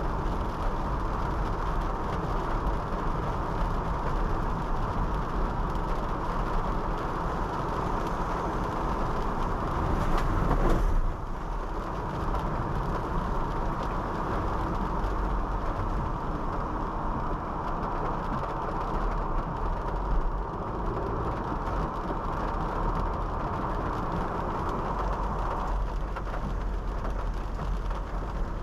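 Honda City 5th Gen sedan driving in the rain: steady tyre and road noise on a wet road with rain. The sound swells about ten seconds in and drops off suddenly, and the higher part of the hiss eases off near the end.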